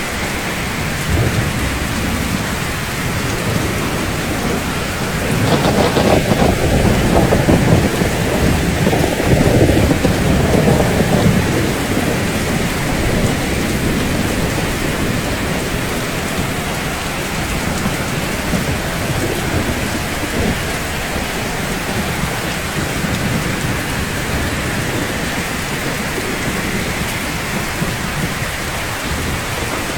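Steady rain falling on rooftops, with a low rumble of thunder rolling in about five seconds in and fading away by about twelve seconds.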